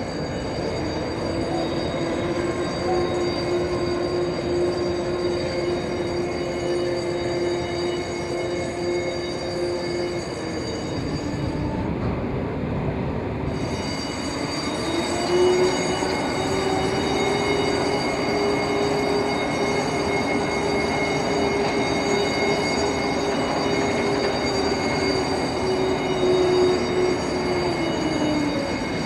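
Steady, loud mechanical rumble with a droning tone that fades about eleven seconds in and comes back a little higher a few seconds later.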